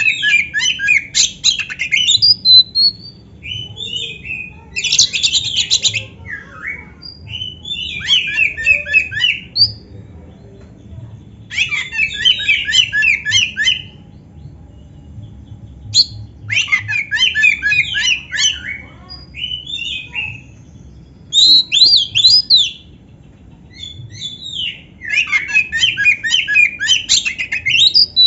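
Oriental magpie-robin (kacer) singing a full, varied song with canary-like trills mixed into its phrases. It sings about seven bursts of rapid, high chattering notes, each a second or two long, with short pauses between.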